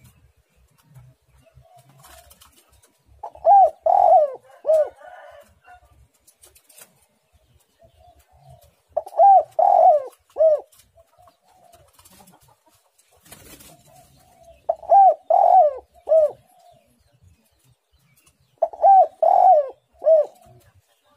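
Spotted dove (tekukur) cooing: four loud phrases of about three notes each, roughly every five to six seconds, with soft low notes between them.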